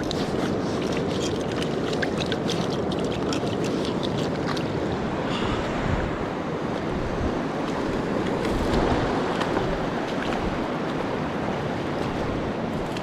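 Steady rush of a mountain stream's flowing water, with light clicks in the first few seconds.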